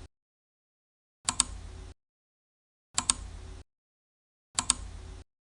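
Ticking countdown sound effect: a sharp double click with a short hiss after it, repeating evenly about every 1.7 seconds, three times.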